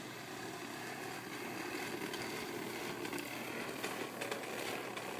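Steady distant engine hum that slowly grows a little louder.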